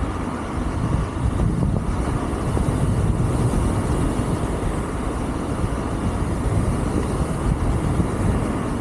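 Steady wind rumble on the microphone with tyre noise from a Wolf King GT Pro electric scooter riding uphill at speed.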